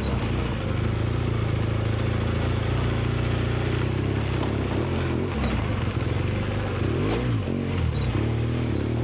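Engine running steadily, with a brief rise and fall in pitch about seven seconds in.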